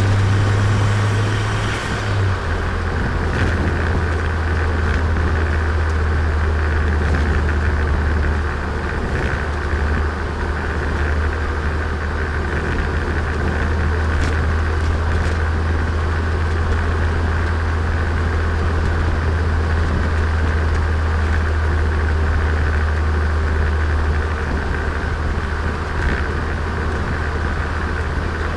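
Turbocharged Nissan Micra engine running as the car is driven, a steady low drone heard onboard with road noise. The drone drops in pitch about two seconds in, then holds steady.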